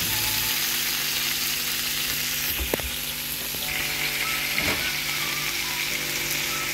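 Liver tikka skewers with peppers and onion sizzling in oil on aluminium foil over a hot tawa griddle, a steady hiss. Two light knocks come about three and five seconds in.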